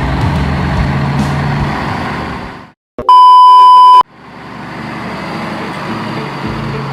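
A truck engine runs steadily, fades out, and is cut by a loud, steady high beep lasting about a second, like a censor bleep. The engine sound then fades back in.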